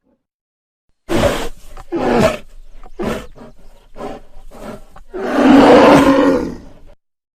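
A big cat growling and roaring: a series of short, rough growls, then one long, loud roar near the end.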